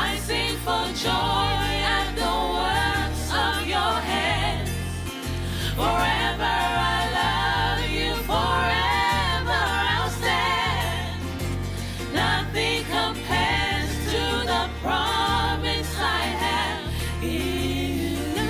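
Live gospel worship music: a choir singing over a band with a strong bass line.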